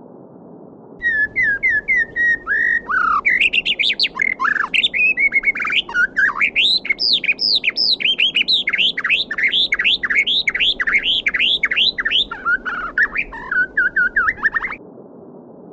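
A songbird sings one long, varied song of rapid whistled notes, many repeated in quick series, each sweeping up or down in pitch. The song starts about a second in and stops abruptly shortly before the end. Under it runs the steady rush of a flowing stream.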